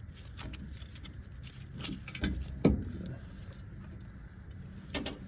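Scattered light knocks and clicks of metal parts and tools being handled as the air-conditioning compressor is worked free of its mounting, over a low steady hum.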